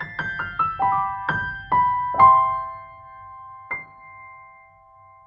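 Soft piano music: a quick descending run of notes, then a few ringing chords and one last note that rings out.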